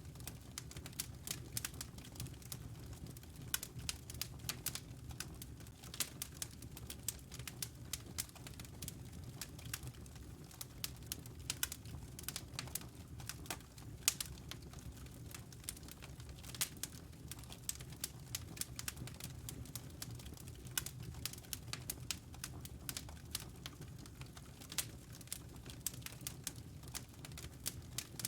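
Wood fire crackling, with many irregular sharp pops and snaps over a low, steady rumble.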